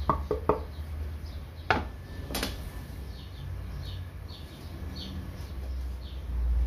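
A few sharp knocks of a wooden board being handled, then short, high, falling chirps repeating every half second or so, like a small bird calling, over a steady low hum.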